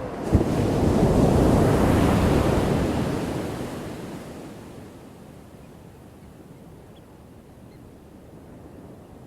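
Ocean waves breaking on a shore. A wave crashes about half a second in, stays loud for a few seconds, then dies down to a low, steady wash.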